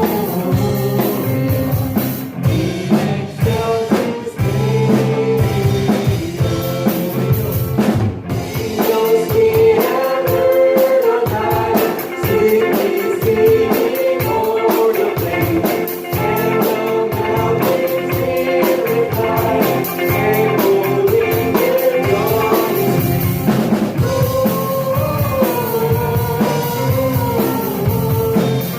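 Live worship band playing a hymn on drum kit and guitar, with singing over it.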